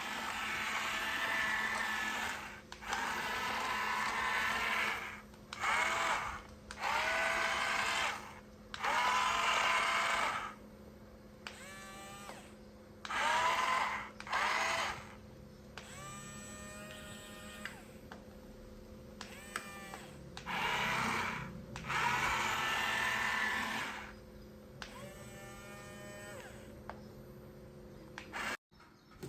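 Small electric gear motors of a toy RC construction vehicle whirring in repeated bursts of one to three seconds, several of them starting with a rising whine.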